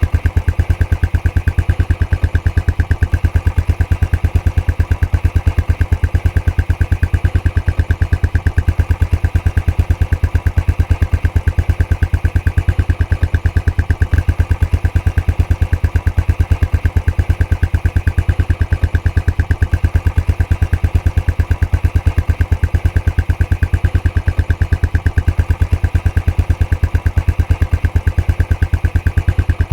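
Royal Enfield Classic 500's single-cylinder engine idling through its stock exhaust, a steady, even beat of exhaust pulses that holds unchanged throughout.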